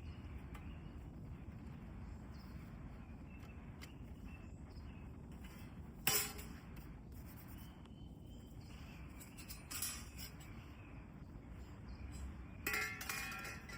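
Steady low outdoor background noise with a few short knocks or clinks, the loudest about six seconds in and a cluster with a brief ringing near the end.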